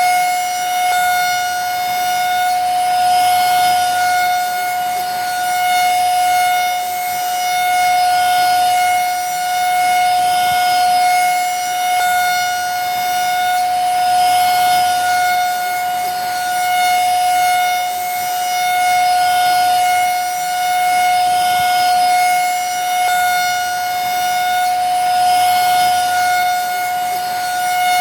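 Vacuum cleaner running continuously: a steady high-pitched motor whine over rushing air, swelling and easing gently every couple of seconds.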